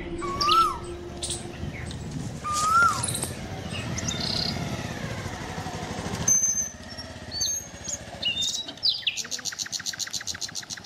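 Birds chirping and calling, with a rising-then-falling whistled call twice in the first three seconds and a fast, even run of chirps near the end. A low rumble lies under the first six seconds and cuts off suddenly.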